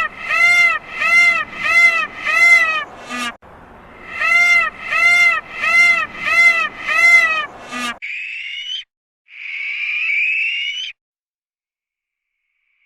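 Repeated animal calls: a run of five or six pitched calls, each rising and falling, about two a second, ending in a quick rising call, then the same run again. After that come two rougher, hoarse calls with a short pause between them.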